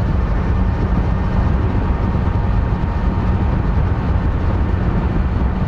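Kawasaki Z900's stock inline-four engine running steadily while the motorcycle is ridden at an even pace, with no revving.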